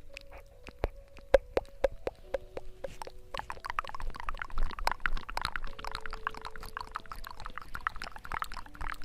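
Water sounds: separate drops plopping, then from about three seconds in a dense crackling, bubbling wash of liquid.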